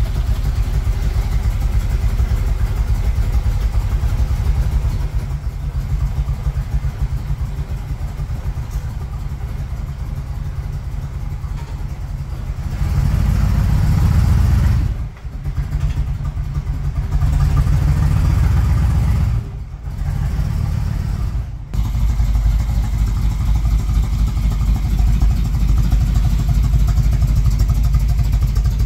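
1978 Chevrolet Monte Carlo's engine, fitted with a 600 CFM Edelbrock Performer carburetor, running, louder for a couple of stretches in the middle. The owner says it needs its ignition timing set and its carburetor rebuilt after sitting so long.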